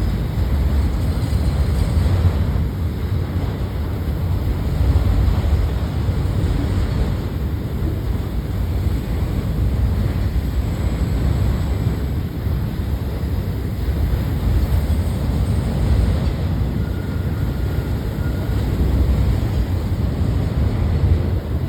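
Freight train rolling past with a steady low rumble, with wind buffeting the microphone.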